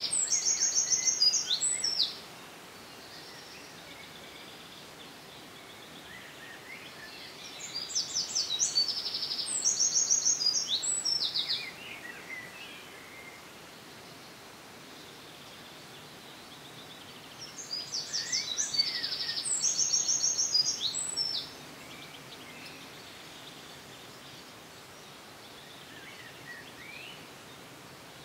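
A songbird singing high, fast-trilled phrases, each two to four seconds long, three times about ten seconds apart, over steady outdoor background noise.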